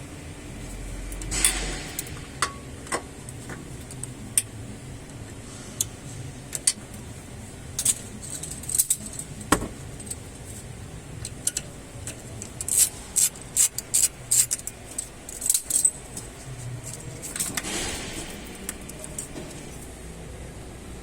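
Small metal objects clinking and jingling in irregular clusters of sharp clicks, busiest through the middle, over a steady low background hum.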